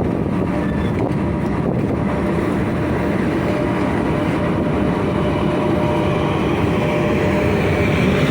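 Freight train hauled by a 3ES5K 'Ermak' electric locomotive rolling by: a steady heavy rumble with faint steady whines, growing a little louder near the end.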